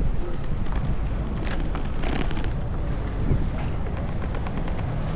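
Strong wind buffeting the microphone as a steady low rumble, with scattered light clicks over it.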